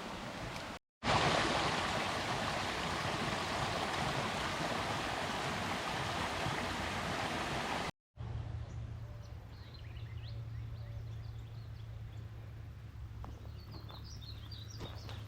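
Steady rushing of a running stream, broken off twice by brief cuts. After the second cut it is quieter, with a low steady hum and faint high chirps of birds.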